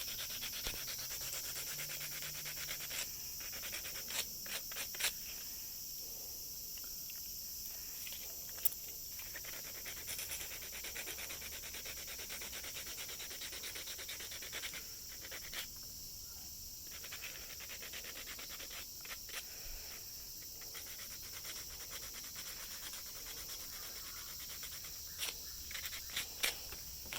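Coarse 80-grit sandpaper rubbing on the 3D-pen plastic of a repaired eyeglass frame, smoothing down the lumpy added plastic. The faint rubbing pauses briefly twice, with a few small clicks.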